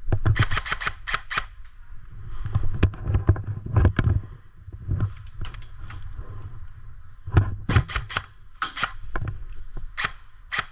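Airsoft guns firing in quick bursts of several sharp shots each: one burst just after the start, more from about two thirds of the way through. Low thumps of movement fill the stretch in between.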